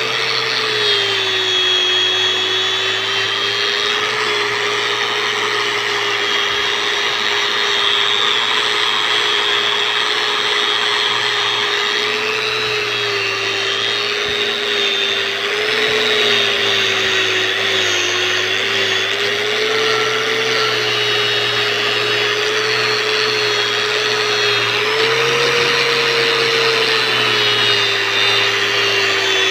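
Angle grinder with a wire brush running continuously, scouring rust and carbon crust off a motorcycle exhaust header pipe. Its pitch dips and recovers slightly as the brush is pressed against the metal, over a steady scratchy hiss.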